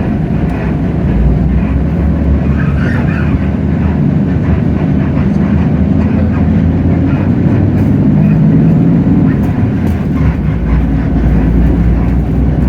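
Hino J08E-VN 7.7-litre inline-six diesel of a city bus running steadily under way, heard from inside the cabin as a loud, deep rumble with road noise.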